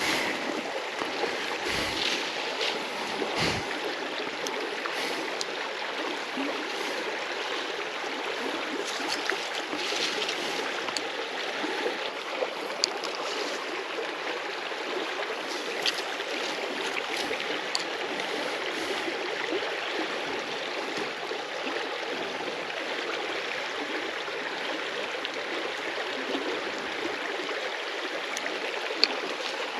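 River water flowing steadily, with a few faint sharp clicks here and there.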